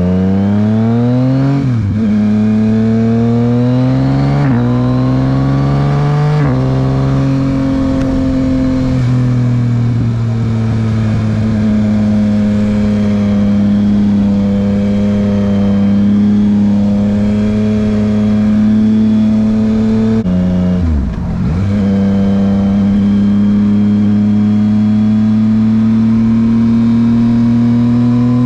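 Yamaha MT-09's inline-three engine through a Dominator HP3 aftermarket exhaust, accelerating hard with three quick upshifts where the revs climb and drop, then holding a steady cruise. The revs dip briefly about two-thirds through, then settle again and start to climb near the end.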